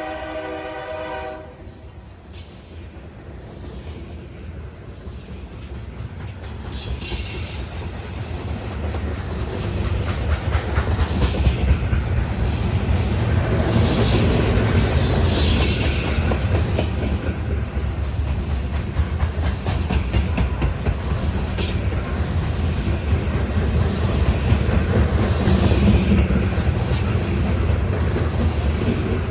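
Norfolk Southern loaded grain train: the locomotive horn chord cuts off about a second and a half in, then the train rumbles past, louder from about ten seconds on, with wheel clatter and several short bursts of high wheel squeal.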